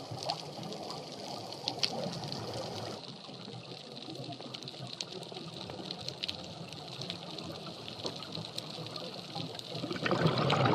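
Underwater ambience on a reef dive: a steady hiss with scattered crackling clicks, and a louder rush of bubbling water near the end.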